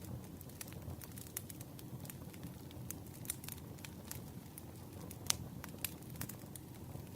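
Campfire burning, with a steady low rumble and frequent sharp crackles and pops, one louder pop about five seconds in.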